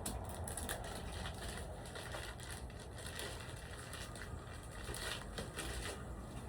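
Faint, scattered crackling of a watermelon rind splitting under the squeeze of many rubber bands.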